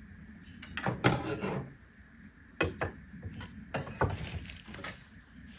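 Hand tools, a shovel and a rake among them, knocking and clattering as they are slid back into a truck's side toolbox: several separate knocks and scrapes of wood and metal.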